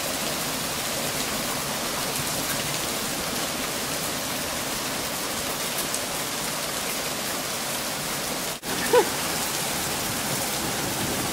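Heavy rain mixed with hail pouring down in a thunderstorm: a steady, even hiss of drops and hailstones striking the ground. Near the end the sound cuts out for an instant, then a short pitched sound follows.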